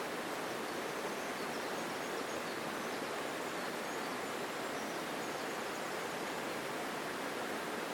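Forest mountain stream flowing strongly, a steady, even rush of water, with a few faint high chirps now and then.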